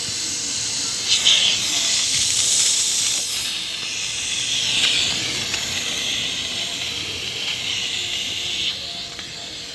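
Compressed air hissing out of a homemade air compressor built from a refrigerator compressor, a loud, steady rush of air that starts suddenly and eases off near the end.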